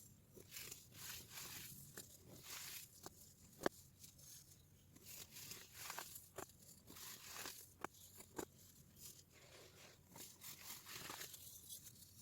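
Compressed baking soda being crushed and crumbled, a run of soft crunches broken by a few sharp cracks.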